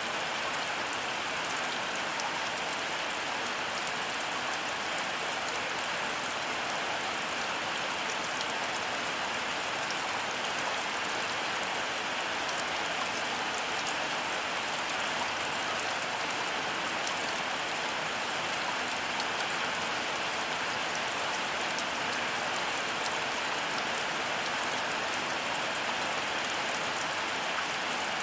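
Heavy rain falling steadily, a dense even hiss with scattered fine drop ticks.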